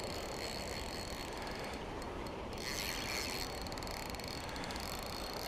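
Fishing reel clicking and whirring as a fish, taken for a pike, is played on the line, with a brief louder rasp about halfway through.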